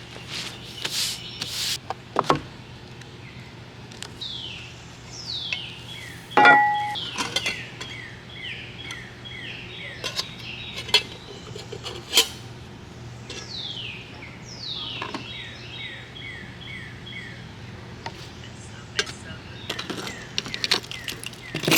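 A songbird singing repeated runs of quick, down-slurred notes, over scattered clinks and clatter of metal cookware. The loudest sound is one sharp clink about six seconds in that rings on briefly.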